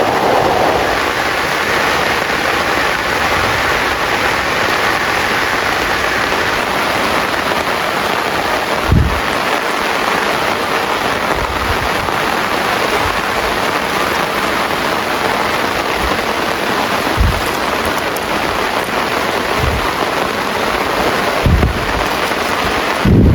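Heavy rain falling steadily, a dense even hiss, with a few short low thuds scattered through it.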